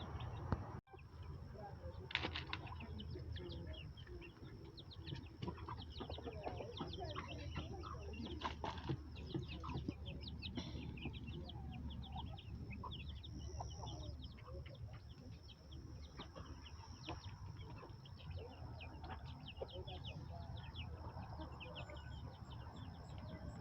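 Backyard poultry in a coop: a dense, continuous stream of short high peeps and chirps with some clucking, as from a mixed flock of chickens and young birds. A faint steady high tone runs underneath.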